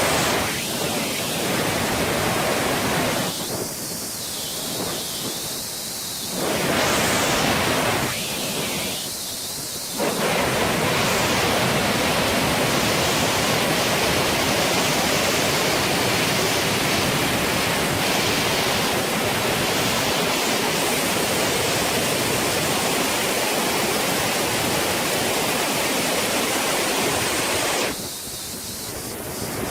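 Saluopa waterfall's rushing water: a steady, loud roar of falling water, thinning briefly in its upper range a few times.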